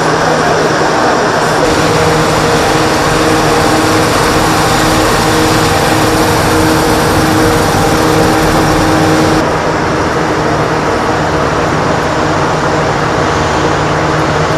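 Steady, loud vehicle noise: a dense rushing sound over a steady low hum. The higher hiss drops away abruptly about nine seconds in.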